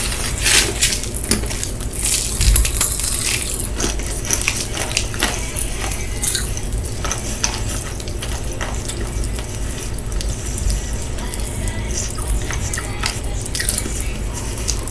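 A candy packet being tipped into a mouth, then chewing and sucking on the candy: scattered wet clicks and crackles, thickest in the first second.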